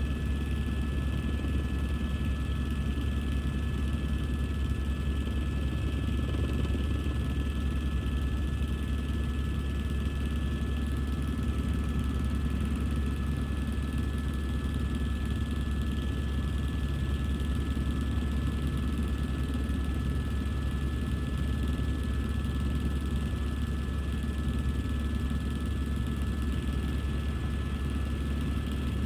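Helicopter heard from inside the cabin in flight: a steady low rotor and engine drone with a constant high turbine whine.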